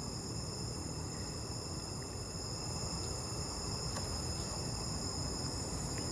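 Insects chirring steadily in unbroken high-pitched bands over a constant hiss, with a couple of faint ticks.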